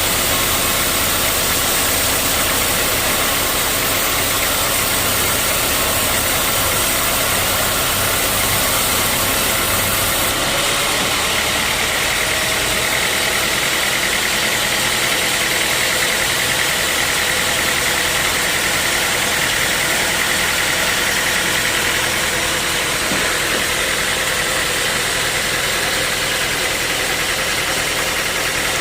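Sawmill saw machinery running steadily and loudly, a constant mechanical drone with a high whine that comes in about twelve seconds in.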